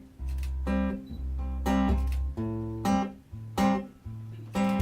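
Acoustic guitar strummed in slow chords, about one stroke a second, over ringing low bass notes, with no singing.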